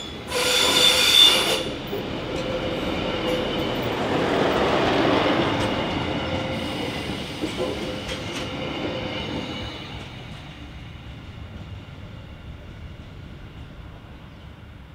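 A Class 628 diesel multiple unit passing by on the rails. It opens with a loud blast lasting about a second, then runs past with a swelling rumble that is loudest about five seconds in and fades away over the last few seconds.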